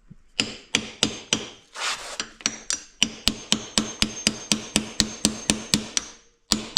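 Hammer blows on a stuck metal part of an ATV, about twenty sharp strikes with a ringing note, settling into a steady rhythm of about four a second. The part is seized and doesn't want to move.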